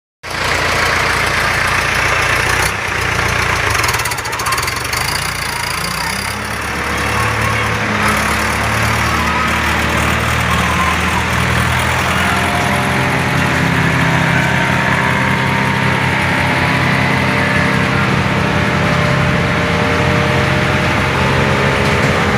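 Coconut husk shredder machine running, with a loud, steady engine drone that shifts in pitch a few seconds in and then holds steady.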